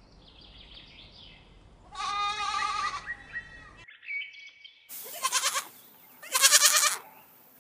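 Goats bleating: a wavering bleat about two seconds in, then a few shorter bleats and a longer one near the end.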